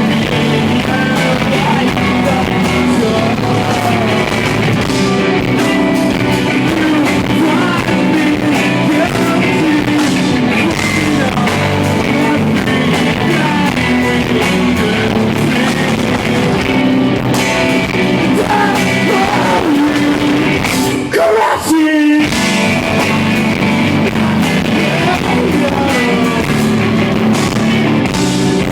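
Live rock band playing loudly with electric guitar and singing, captured on an iPod microphone in the room. The music breaks off for a moment about three-quarters of the way through, then comes straight back in.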